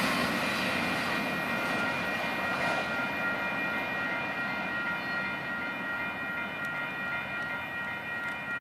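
Union Pacific train rolling past and slowly fading away, with steady high whining tones from the wheels on the rail over the rumble. The sound cuts off abruptly at the end.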